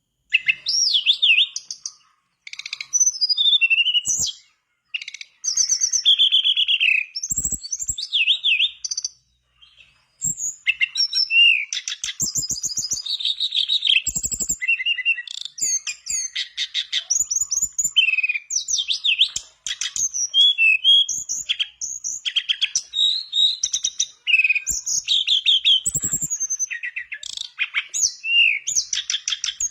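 Tledekan bakau singing a fast, varied song of high chirps, whistled slurs and rattling trills. The song comes in phrases with short pauses through the first ten seconds, then runs almost without a break.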